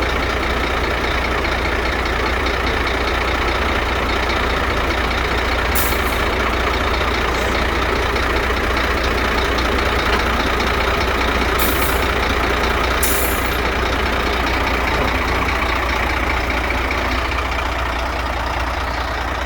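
Scania P380 dump truck's diesel engine running steadily, with three short hisses of air about six, eleven and thirteen seconds in.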